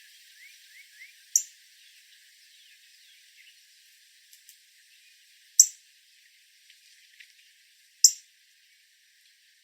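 Male northern cardinal giving sharp chip calls: three short, high notes spaced a few seconds apart, with faint chirps of other birds in the background near the start.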